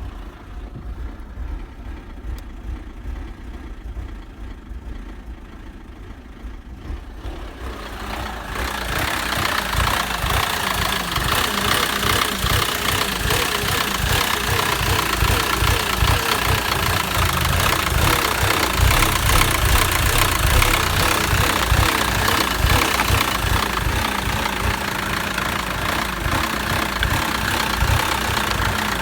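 Mercedes M271.941 1.8-litre four-cylinder petrol engine idling steadily. It grows clearly louder and fuller about eight seconds in, then runs on evenly.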